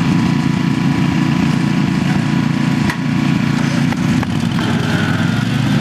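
Small lawn mower engines running steadily, with one sharp click about three seconds in.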